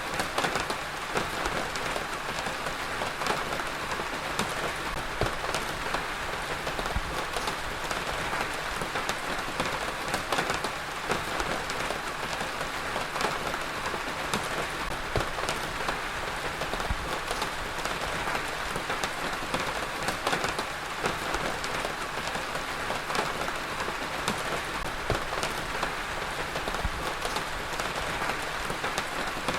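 Heavy rain falling steadily on a surface, a dense even hiss with many close, individual drop impacts spattering through it.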